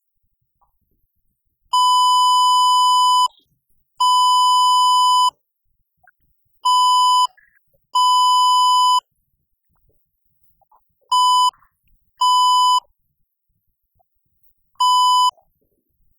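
Loud electronic bleep tone at one steady pitch, sounding seven times in beeps of uneven length, from under half a second to about a second and a half.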